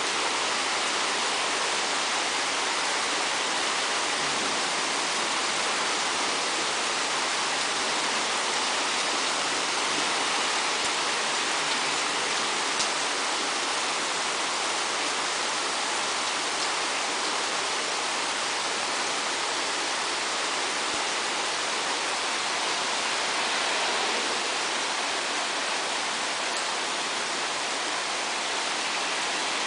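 Steady rain falling, an even hiss that holds at one level, with a single faint tick about thirteen seconds in.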